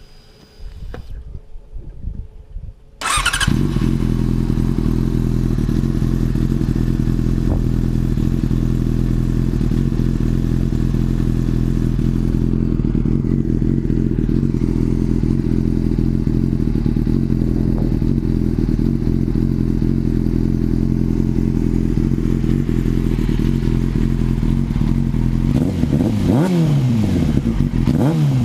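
2006 Yamaha R6S inline-four engine breathing through a Danmoto GP carbon fiber aftermarket exhaust: after some quieter clatter it fires up about three seconds in and idles steadily, then is revved briefly twice near the end.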